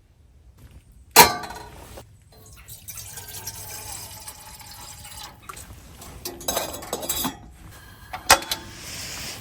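Camp-kitchen cookware handled in the morning: a sharp knock about a second in, clinks and clatter of pots and cups a little over halfway through, another sharp click, then a brief hiss of liquid being poured near the end.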